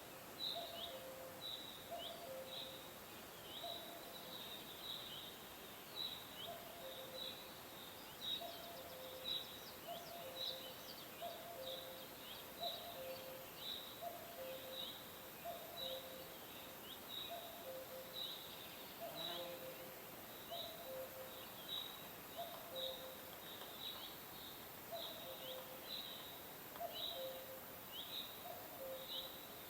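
Birds chirping in a steady run of short, high chirps, one or two a second. Under them a lower two-note call repeats about once a second.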